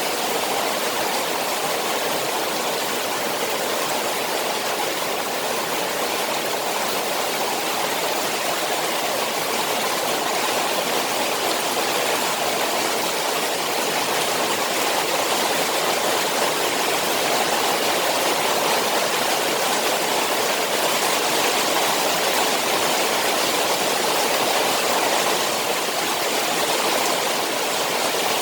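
Rain on a koi pond: a steady, even rush of falling and running water.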